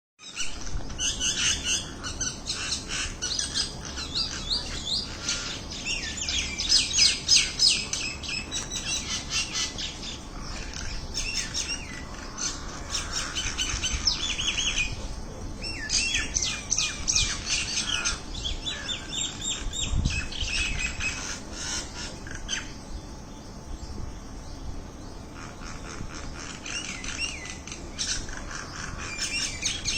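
Many birds chirping and calling at once, short overlapping chirps without pause, thinning somewhat in the last third, with a single brief low thump about two-thirds through.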